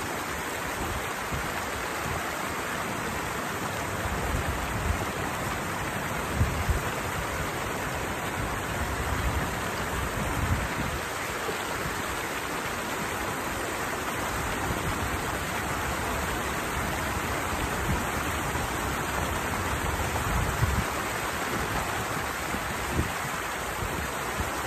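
Steady rushing of water pouring over a small weir into a stream channel, an even hiss with faint low bumps now and then.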